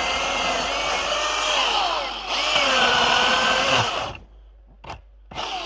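Milwaukee cordless electric chainsaw running at full speed and cutting into a dead tree, its motor whine sagging in pitch as the chain bites, then stopping about four seconds in. A brief sharp snap follows, and near the end the saw whines up briefly again and winds down.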